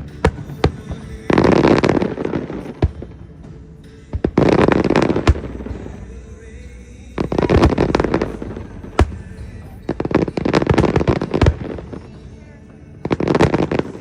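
Fireworks display: sharp single booms of shells bursting, with about five crackling bursts lasting a second or so each.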